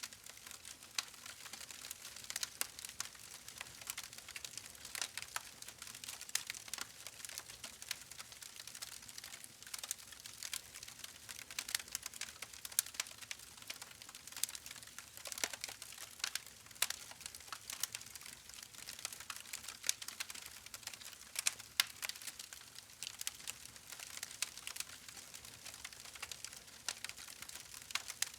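Campfire crackling: burning wood popping in many sharp, irregular crackles, several a second, over a faint hiss.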